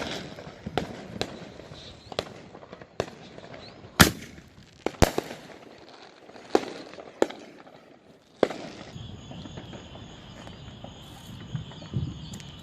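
Aerial firework mortars going off: a string of about ten sharp bangs at uneven intervals over eight seconds, the loudest about four seconds in. After that the bangs stop and a steady high insect chirring is left.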